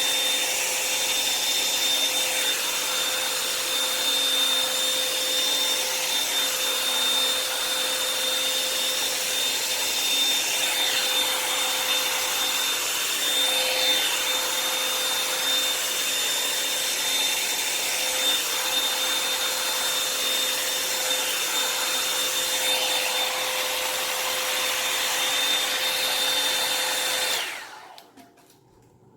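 Revlon hot-air dryer brush running steadily, a whirring rush of air with a steady whine, then switched off near the end.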